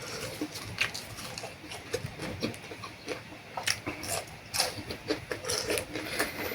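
Close-up eating sounds: wet slurping and chewing of noodles, with many small clicks and ticks.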